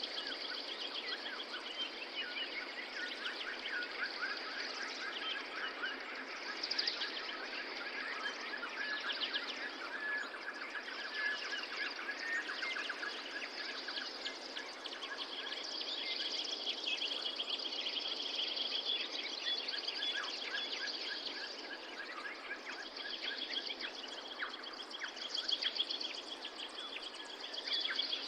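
Several songbirds singing at once in rapid trills and chirps over a steady background hiss.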